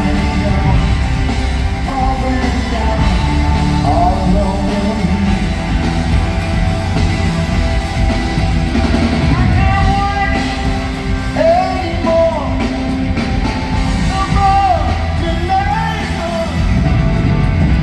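Live rock band playing with a voice singing over it, in long gliding sung phrases.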